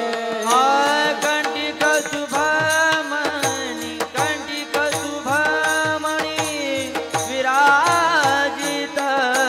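Indian devotional bhajan music between sung lines: a held melody whose notes slide up into pitch, over steady drum and percussion strokes.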